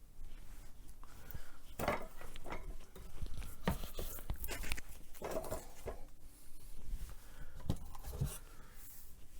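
Small objects knocking and clinking as they are picked up and set down, with rustling and wiping between: a dusty shelf being cleaned by hand.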